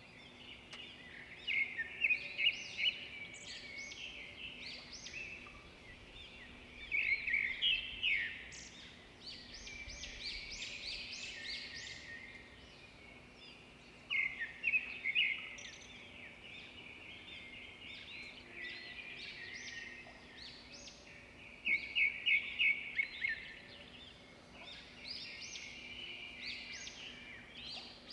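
Small birds chirping and twittering continuously, with louder clusters of rapid chirps about every seven seconds.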